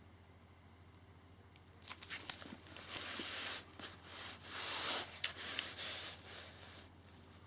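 Packaging rustling and crinkling as it is handled close by, in irregular bursts with a few sharp clicks, starting about two seconds in and dying down near the end.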